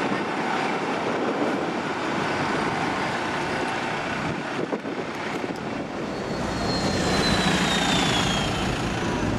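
Busy city-centre bus and tram traffic. From about six seconds in, a vehicle's low engine rumble grows louder as it draws close, with a thin high whine that slowly falls in pitch.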